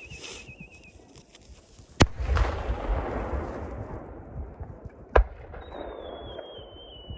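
Aerial fireworks. A wavering whistle falling in pitch fades out about a second in. A shell bursts with a sharp bang about two seconds in, followed by an echoing rumble, and a second bang comes about five seconds in. Another falling whistle then starts near the end.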